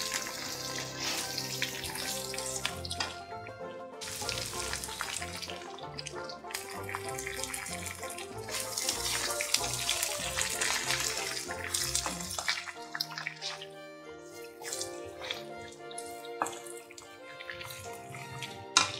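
Background music over a hissing sizzle of ridge gourd peel frying in oil in an iron kadai as it is stirred with a spatula. The sizzle thins out after about twelve seconds, and there is a sharp knock near the end.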